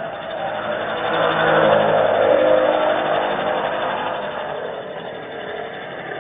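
A vehicle passing by: its noise builds for about two seconds, then fades away.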